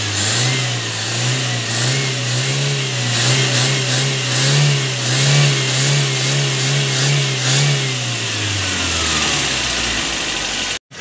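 Old-model Toyota Corolla four-cylinder engine running while it warms up, its speed rising a little at first, holding with a wavering pitch, then dropping away about eight to nine seconds in. The sound cuts out abruptly just before the end.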